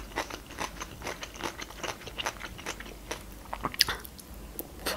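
Close-miked mouth sounds of a person chewing baked meat lasagna: a steady run of small wet clicks and smacks, with one sharper click a little before the end.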